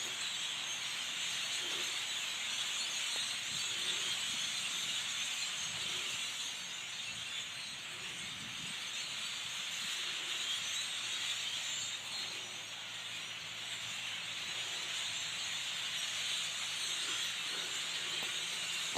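A large flock of birds massed in a tree, hundreds calling and chattering at once in a dense, steady, high-pitched din.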